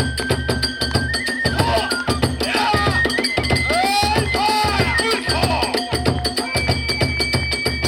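Kagura accompaniment: drums beaten in a fast, steady beat with hand cymbals, under a transverse flute holding long high notes.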